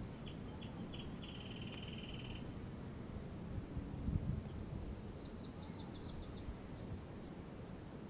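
Small birds chirping over a steady low outdoor rumble. A run of short chirps runs into a quick trill in the first couple of seconds, and a rapid series of higher notes follows past the middle. A brief low thud comes about halfway through.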